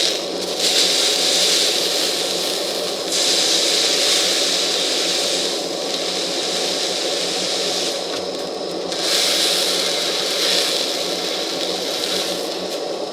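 Steak searing in a hot pan: a steady rushing noise with a higher sizzling hiss that swells and drops away three or four times.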